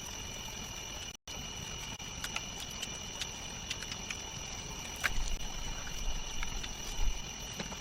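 Rainforest ambience: a steady high insect drone with scattered light ticks and taps, and a few dull low thumps about five seconds in and near the end. The sound cuts out completely for a moment about a second in.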